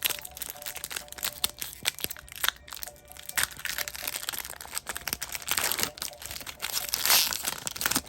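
Foil Pokémon booster pack wrapper being handled and crumpled: a dense run of crinkling and crackling, with louder crunches about three and a half, six and seven seconds in.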